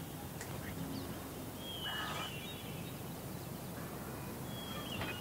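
Faint farmyard ambience with a few short, high bird chirps.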